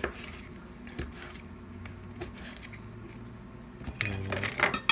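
Knife dicing pickles on a cutting board: a few separate taps about a second apart, then a quicker run of chops near the end.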